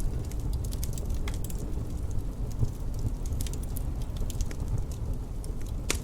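Wood fire crackling, with scattered small pops and one louder snap near the end, over a low steady rumble of wind.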